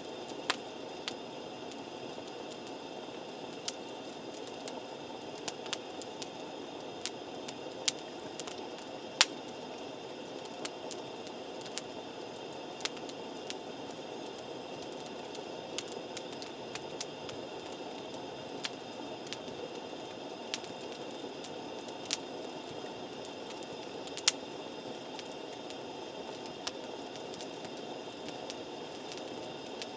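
Wood campfire burning: a steady rushing hiss with irregular sharp pops and snaps from the burning wood.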